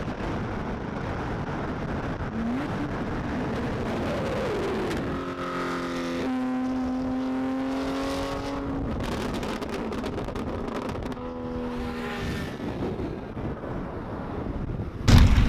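Car engines and road noise, with a couple of short rising engine notes early on and an engine holding a steady note for several seconds in the middle.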